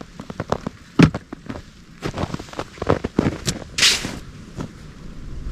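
Irregular close clicks and knocks, the loudest about a second in, with a short rustling hiss about four seconds in: handling noise near the microphone.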